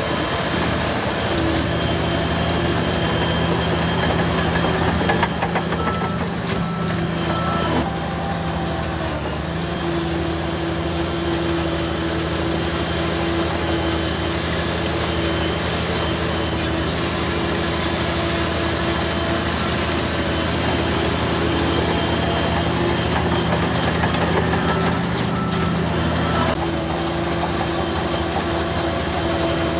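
Heavy diesel bulldozer engines running steadily under load, with a few knocks about five to eight seconds in.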